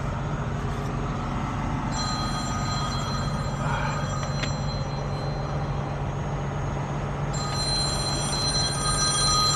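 A phone ringing in two rings, one about two seconds in and another about seven seconds in, over a truck engine running steadily.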